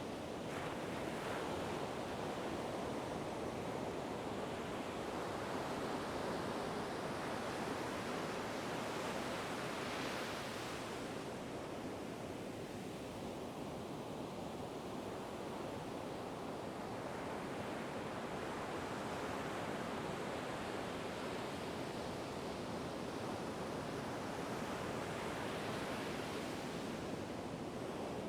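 Ocean waves breaking and washing in a continuous rushing surf, with slow swells in loudness every several seconds and no other sound over it.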